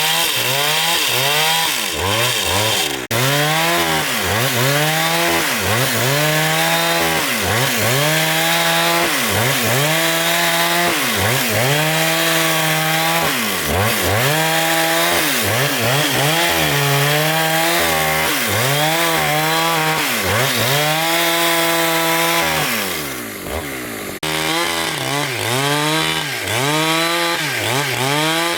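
A two-stroke chainsaw engine cutting wood at high revs. Its pitch sags and recovers over and over, about every second and a half, as the chain bites into the timber and frees up again.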